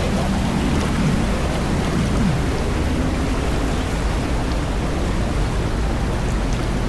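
Steady rush of flowing water in a canyon stream.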